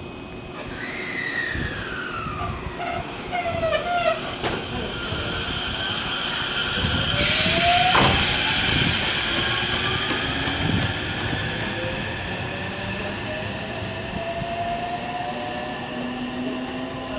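Electric multiple-unit train pulling out: a whine falls in pitch in the first few seconds, then the traction motors' whine rises steadily as it accelerates, with a loud hiss of air about seven seconds in.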